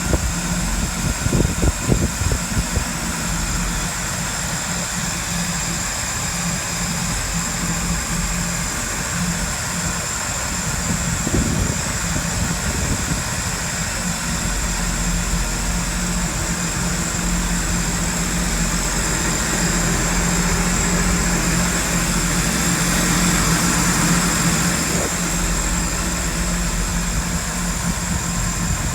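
A vehicle engine idling steadily, with a few uneven louder pulses in the first couple of seconds, then an even run.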